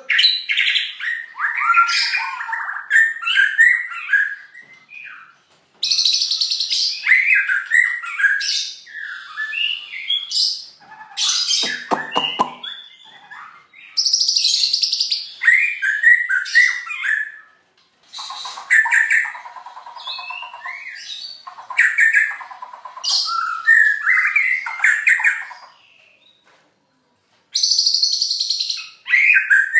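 Caged songbird singing in loud phrases of quick chirps and warbles, broken by short pauses. Its song includes imitations learned from a previous owner, among them the call of the belalang emas insect, and has buzzy, hissing high-pitched stretches about 6 seconds in, about 14 seconds in and near the end.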